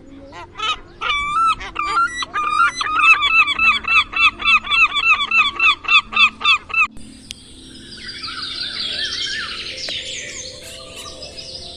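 Goose honking in a fast series of repeated honks, about three or four a second, which cuts off abruptly about seven seconds in. A busier, higher chatter of many small birds chirping follows.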